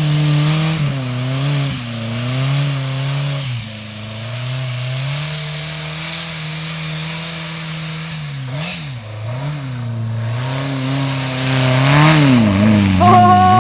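Air-cooled VW flat-four engine revving up and down while the car spins donuts in snow. Its pitch rises and falls every few seconds and climbs again near the end.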